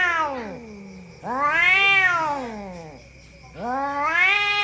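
Domestic cat yowling: long drawn-out meows that rise and then fall in pitch, the end of one call, one full call of about a second and a half, and another beginning near the end.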